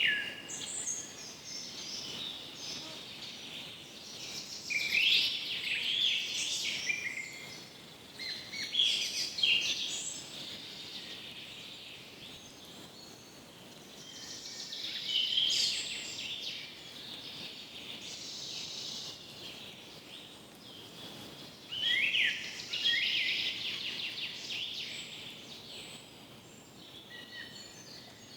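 Songbirds singing in a forest: short phrases of rapid high notes every few seconds, loudest about 5, 9, 15 and 22 seconds in, over a faint steady background hiss.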